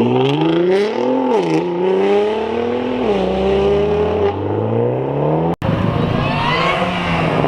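Car engine revving hard, its pitch climbing, dipping and climbing again as the throttle is worked. The sound cuts out abruptly for an instant about five and a half seconds in, then another rising rev follows.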